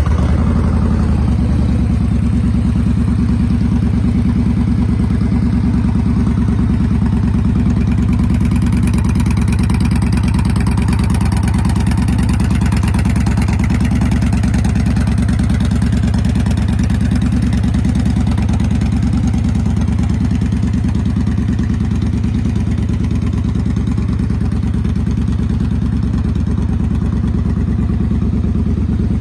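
Victory Freedom 106 V-twin motorcycle engine running steadily at idle, with a dense, even pulse of firing strokes.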